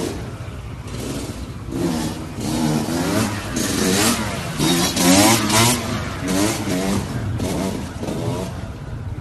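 Motorcycle engines revving again and again, the pitch rising and falling, loudest in the middle few seconds.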